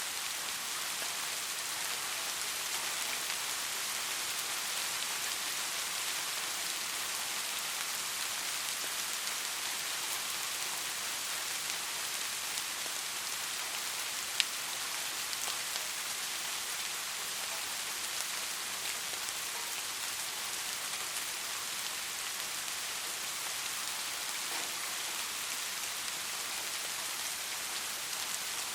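Steady soft rain: an even hiss of many small drops pattering, with one sharper drop tap about halfway through.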